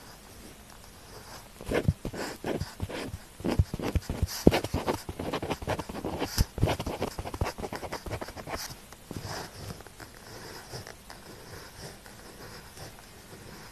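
Pen tip writing on paper in a quick run of scratchy strokes and taps, busiest for several seconds after the first couple of seconds, then fainter light scratching.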